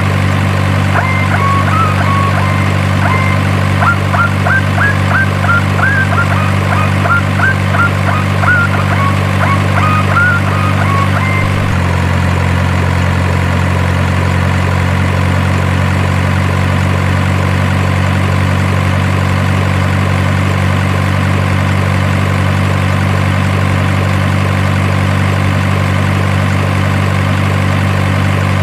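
Steady low truck-engine idle hum for the RC dump truck, with birds chirping over it for the first dozen seconds. About 12 s in, the engine note shifts slightly and the chirping stops.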